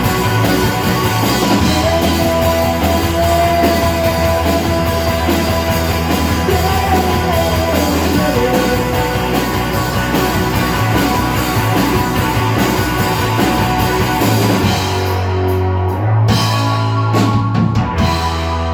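Rock band playing live: an instrumental passage with bass, guitar and drum kit, a sustained lead note over it early on, the texture thinning to sparser drum hits near the end.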